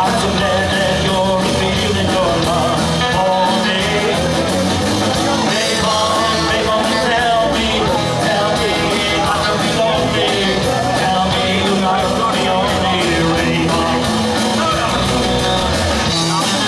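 Live rock and roll band playing a song, with singing over the guitars.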